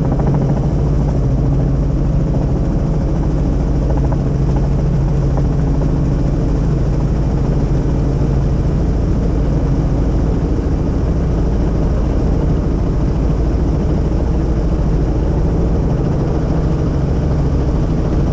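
Helicopter in flight heard from inside the cabin: a loud, steady rotor and engine drone, with a low hum in it that fades about halfway through.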